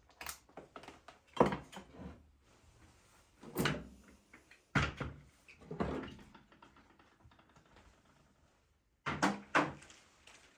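Household knocks and clatters from kitchen work: about seven separate sharp knocks, the loudest about a second and a half in and a close pair near the end.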